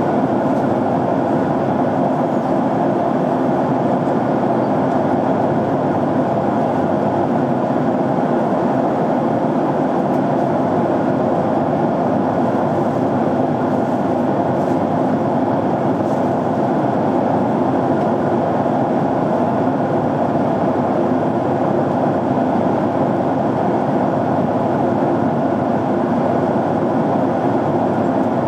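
Jet airliner cabin noise in flight: a steady, unchanging hum of engines and airflow heard from a window seat.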